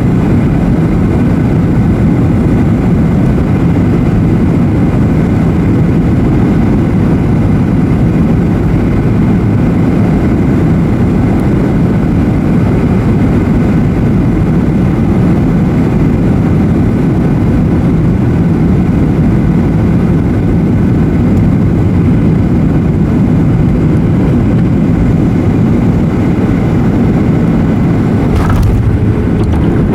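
Strong wind buffeting the microphone in a loud, steady low rumble, with a faint steady whine from the jet engines of a Boeing 737-800 approaching to land. A short sharp crack comes near the end.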